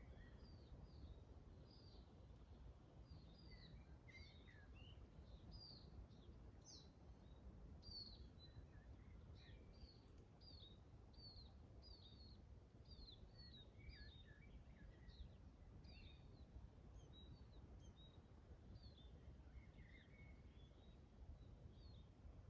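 Faint birdsong in a forest: many short, quick chirps and whistled notes from small birds, some overlapping, over a low steady background rumble.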